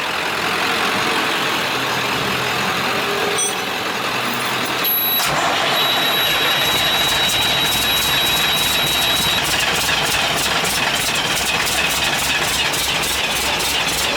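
International DT466 inline-six diesel, freshly rebuilt in-frame, being started: it turns over on the starter and catches about five seconds in, then runs with an even pulse. The injector lines have just been bled, and the engine is not yet firing on all cylinders.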